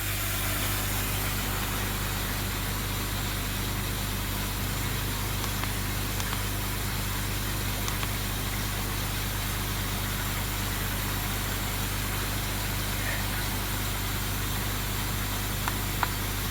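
Koi pond pump and filter equipment running with a steady low electrical hum, under an even hiss of water pouring in as the pond is topped up. A few faint clicks come near the end.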